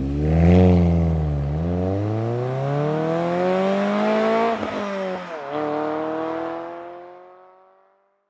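Car engine accelerating through the gears, its pitch climbing with the revs and dropping at gear changes about one and a half and five and a half seconds in, then fading away.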